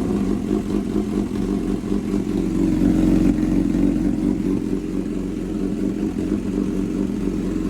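2006 Suzuki GSX-R1000's inline-four engine idling steadily, with a slight rise in revs about three seconds in.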